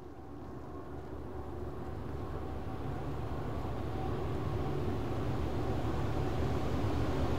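A train approaching, its diesel locomotive rumble with steady engine tones growing steadily louder.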